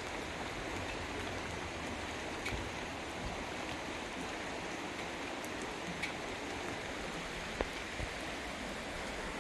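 Steady rain, an even hiss with a few scattered drip ticks.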